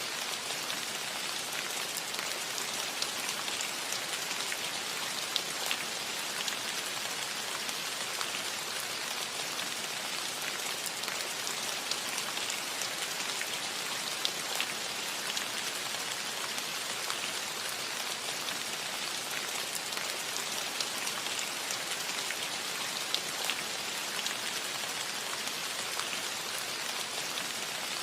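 Steady rain falling on a cottage roof: an even hiss of rainfall with scattered sharper drop ticks.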